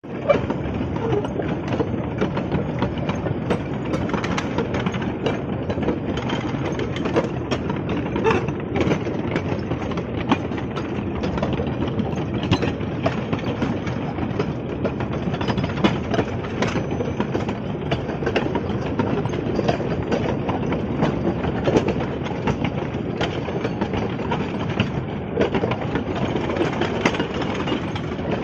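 A 12-ton battery-electric mine locomotive hauling a train of mine wagons on rails: a steady rolling rumble with frequent sharp clanks and rattles from the wheels and couplings.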